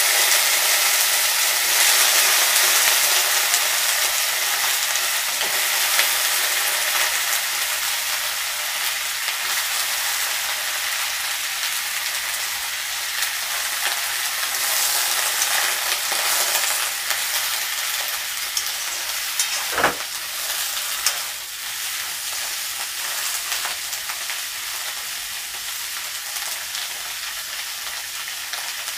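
Chopped vegetables sizzling in hot oil in a kadai just after being added, the sizzle slowly dying down as the pan settles. A single sharp knock sounds about twenty seconds in.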